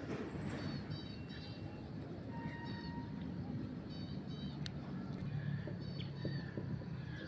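Birds calling outdoors in short, repeated chirps, over a steady low background rumble.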